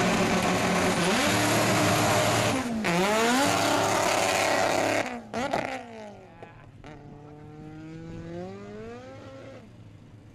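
Hatchback drag car launching hard at high revs, its engine note dipping at two quick gear changes in the first three seconds. About five seconds in it turns much quieter and is heard pulling up through the gears again, the pitch rising and then dropping at each shift.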